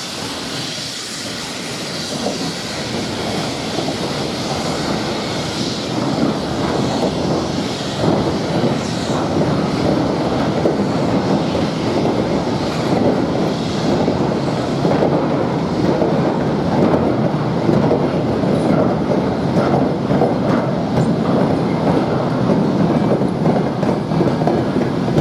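A train running on the rails, growing louder over the first several seconds as it comes closer, with a dense clatter of wheels over the track.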